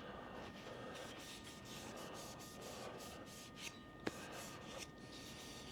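Faint rubbing and handling of a turned hickory wooden spatula in the hands, with a light click about four seconds in.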